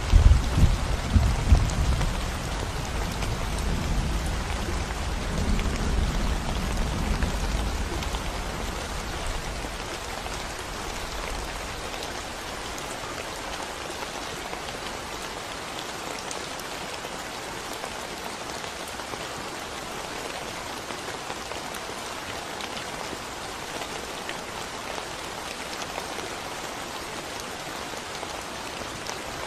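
Steady rain falling on a concrete road, an even patter of drops. A low thunder rumble trails off over the first ten seconds or so, leaving only the rain.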